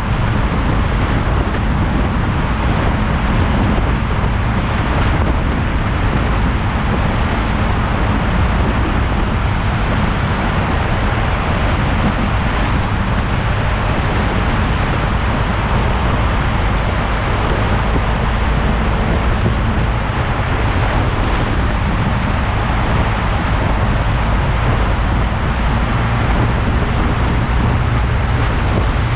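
Motorcycle on the move: a steady rush of wind and road noise with a low, even engine hum.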